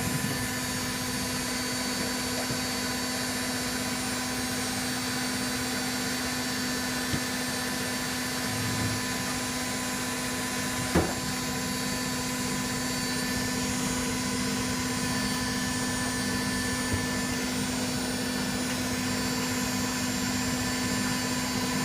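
Candy Aquamatic 1000T compact washing machine with an empty drum, spinning at a steady speed: an even motor whine that neither rises nor falls, with one sharp click about halfway through.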